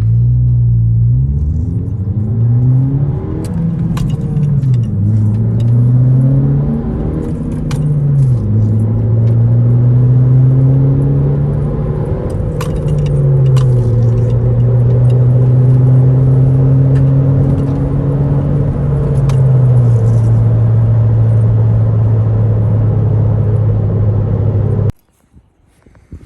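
Honda Civic hatchback's 1.5-litre turbo four-cylinder with its muffler and resonator deleted, heard from inside the cabin as the car accelerates from first gear. The engine note climbs in pitch through each gear and drops at several upshifts, then holds steady while cruising. The sound cuts off abruptly near the end.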